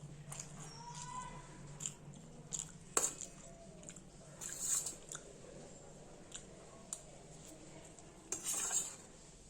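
Eating sounds of a noodle meal: utensils clicking against a bowl, with a sharp click about three seconds in, chewing, and short slurps around the middle and near the end.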